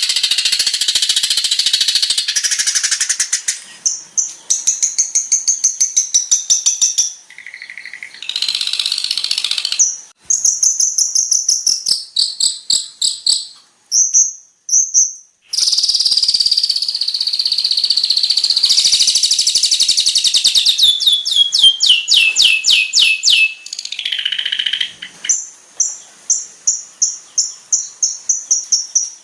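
Long-tailed shrike (cendet) singing a loud, varied song. It mixes dense scratchy chatter with runs of fast repeated high notes, one of which falls in pitch, and breaks off briefly now and then.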